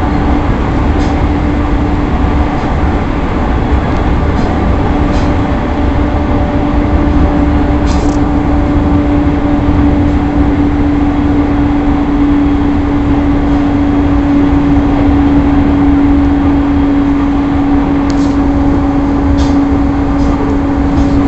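Running sound heard inside a JR East E217 series electric train at speed: a steady low rumble of wheels on rail with a steady hum over it, which grows a little stronger in the middle. A few faint ticks come through near the start and again near the end.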